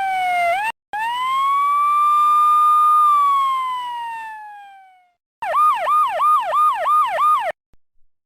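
Police car siren: a brief wail cut off, then a long wail that rises, holds and slides down over about four seconds, then a fast yelp at about four cycles a second that cuts off suddenly.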